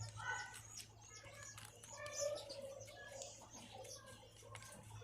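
Faint chirping of small birds: many short, high calls, several a second, over a low steady hum, with a few light clicks.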